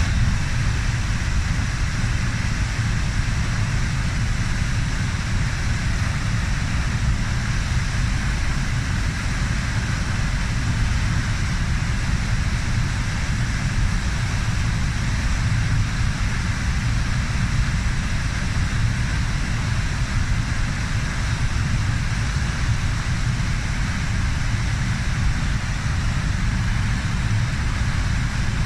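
Arrow River falls: a steady, deep rush of falling water that never lets up.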